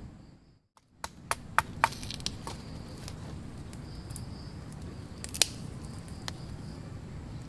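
A small wood fire crackling as it catches, with irregular sharp pops of burning twigs: a quick run of them about a second in and a loud single pop near the middle. Faint insects sing in the background.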